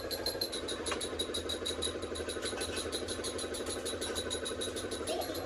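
A machine running steadily with a fast, even ticking, about nine ticks a second.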